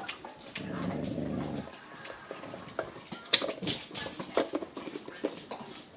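A dog growls low for about a second, then sharp clicks and taps follow.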